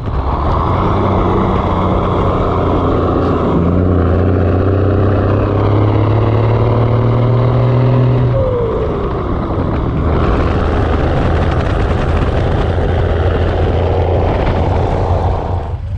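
Rollback truck engine heard inside the cab, pulling under load with its pitch slowly rising as the truck accelerates. About eight seconds in the pitch drops sharply at a gear change, and the engine then runs on steadily with road noise.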